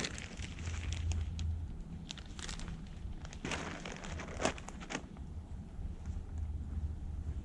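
Crinkling of something being handled, in short bursts over a steady low hum.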